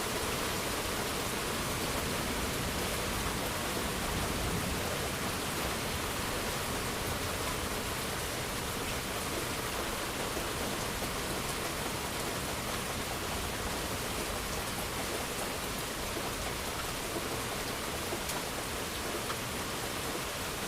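Steady rain falling, an even hiss with a few faint drop ticks; no thunder rumbles in this stretch.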